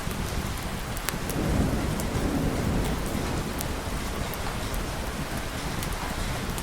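Steady heavy rain with a low rumble of thunder that swells about a second and a half in and fades over the next couple of seconds. Scattered sharp ticks come through the rain.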